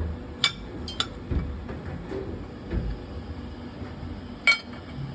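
Metal tools and engine parts clinking and knocking as they are handled, with a few sharp clinks, the loudest near the end, over a low steady hum.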